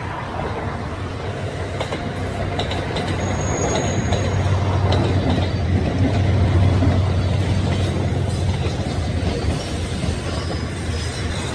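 Trains passing through a multi-track yard: a low rumble builds and peaks around the middle as a freight locomotive hauling container wagons approaches. Wheels click over rail joints and give a brief high squeal about three seconds in.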